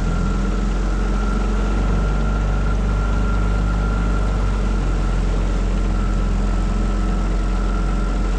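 Tohatsu 9.8 hp four-stroke outboard motor running at a steady speed, a constant low hum with a thin steady whine above it.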